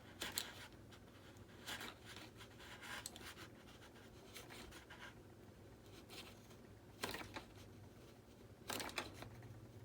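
Knife blade cutting and scraping the foam of an RC jet model in about six short scratchy strokes, spread a second or so apart.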